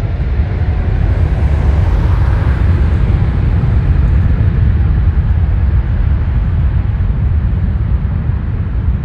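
Jet airliner passing close by, a loud, steady low engine rumble with a faint rising whine in the first few seconds.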